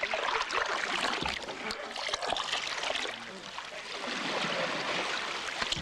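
River water rushing and splashing around a canoe as it slides over an obstacle in the current, with many short knocks and scrapes throughout.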